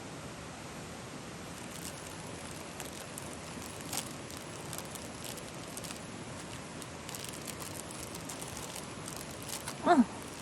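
Wood fire crackling, with irregular scattered pops over a steady hiss.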